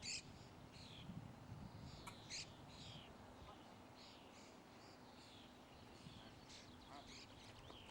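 Faint birdsong: many short chirps and trills from several birds, with a low steady hum beneath.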